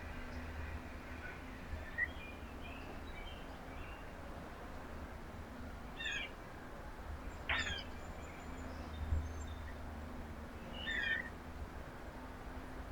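Wild birds calling: a few short, sharp calls spaced several seconds apart, over a steady low hum.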